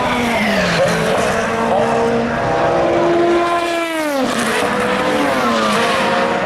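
Several endurance race cars lapping the circuit, their engine notes overlapping; about four seconds in one car passes close and its pitch drops sharply as it goes by.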